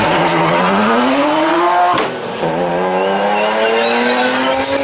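Two BMW straight-six engines at full throttle off a drag-race start line. The engine note climbs steadily, breaks sharply for a gear change about two seconds in, then climbs again, with tyre squeal over it in the second half.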